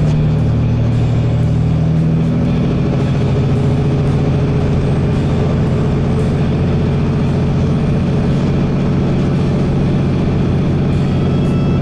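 A vehicle engine running steadily at cruising speed: a loud, even, low drone with road noise.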